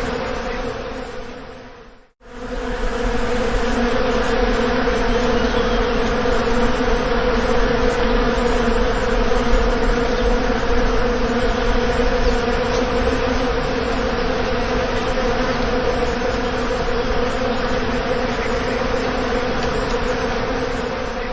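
Bees buzzing in a steady, loud drone. It fades out about two seconds in, drops to a moment of silence, then comes back and holds steady before fading again at the end.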